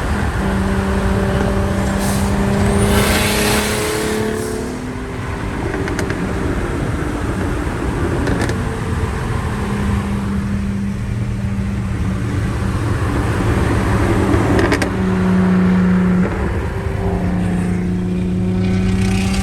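Engine of a big-turbo car running under way, holding a steady note that drops away and comes back several times, over a constant low road rumble.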